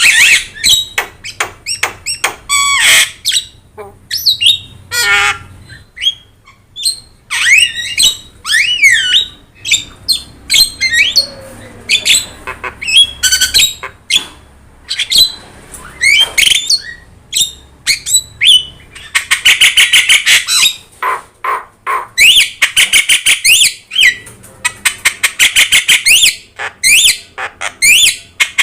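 Javan myna singing energetically: a varied run of gliding whistles and harsh squawks, breaking into fast rattling chatter in the second half.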